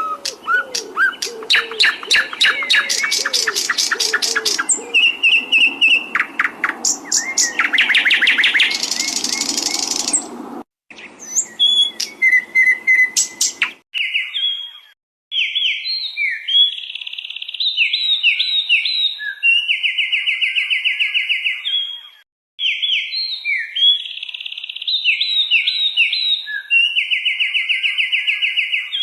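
Recorded songbird song. For about the first ten seconds, rapid chirps and trills play over a background hum. After a brief break comes a clean recording of one bird repeating the same phrase twice: a run of short whistled notes followed by a long buzzy trill.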